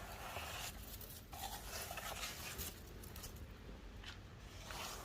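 Snow being brushed or scraped off a car: a run of short, irregular swishing strokes.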